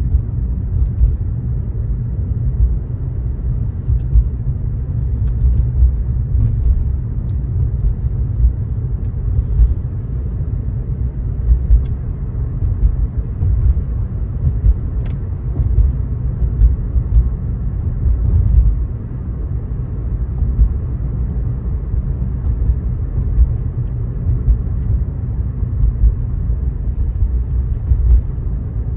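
Car driving on a wet road in the rain: a steady low rumble of road and tyre noise, with faint scattered ticks.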